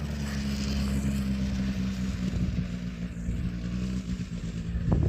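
Quad bike engine running at a steady pitch, a little quieter than a close pass, with a short loud knock near the end.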